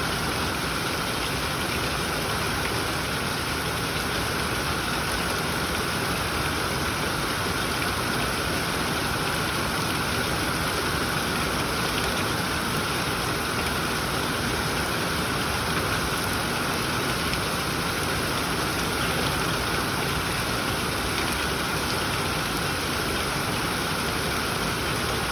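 Steady heavy rain falling and pattering on surfaces, an even hiss with faint scattered drop ticks.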